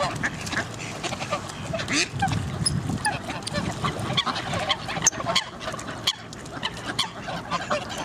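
Waterfowl calling: geese honking with ducks quacking, many short calls overlapping.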